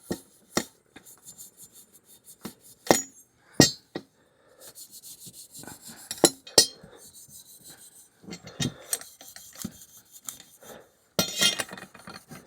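Dry gray abrasive scuff pad scrubbing a Honda Grom's stainless steel muffler in rasping passes, broken by several sharp clinks and knocks of the metal being handled.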